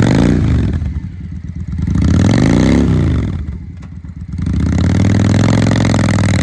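2000 Honda Shadow ACE 750's liquid-cooled V-twin through a Vance & Hines exhaust, revved in place: a rev falling off at the start, a second rev rising and falling about two to three seconds in, a brief drop back toward idle, then held at a steady raised speed from about four and a half seconds in.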